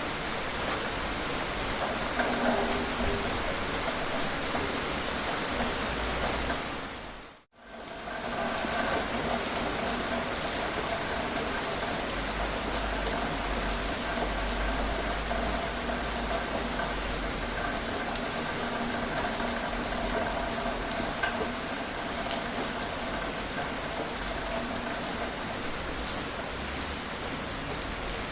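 Steady gentle rain falling and pattering on surfaces. About seven seconds in it briefly fades almost to silence, then fades back in.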